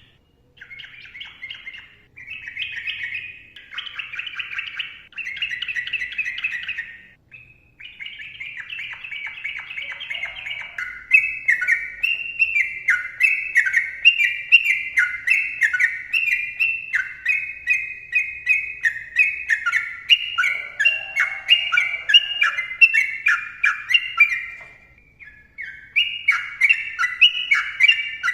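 Yellow-vented bulbul singing a long, busy song: choppy chattering phrases at first, then from about eleven seconds a fast, steady run of repeated down-slurred whistled notes, with a brief pause near the end before it carries on.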